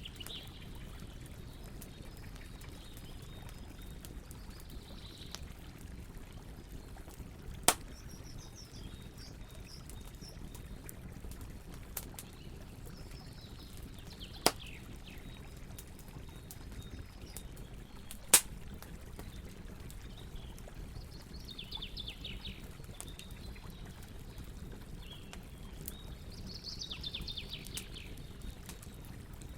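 Campfire burning with a steady low rumble and three sharp wood pops, one at about 8 seconds, one near 14 seconds and one near 18 seconds. Short bursts of bird chirps come in now and then, most noticeably near the end.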